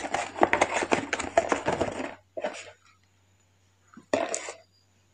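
Rapid clicking and rustling of a keypad mobile phone being handled, its buttons pressed, for about two seconds, then two short bursts of the same handling noise, the second about four seconds in.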